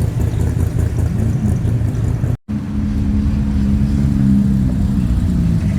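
Car engines running at low speed as cars roll slowly past. The sound cuts out for an instant about two and a half seconds in, then an engine holds a steady drone.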